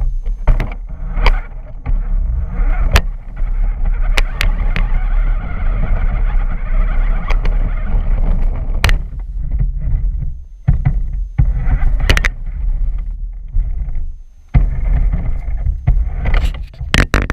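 Remote-control truck driving over rough ground, recorded from a camera mounted on it: a steady, loud low rumble with frequent sharp knocks and clatters as it bounces. The noise drops out briefly a few times.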